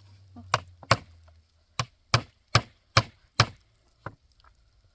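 A run of sharp chopping strikes on wood, two to three a second, with a short break about a second in.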